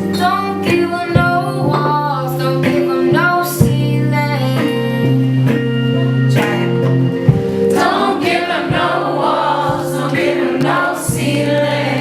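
Live indie soul band playing: a woman singing over guitar accompaniment with steady chords and percussive strikes.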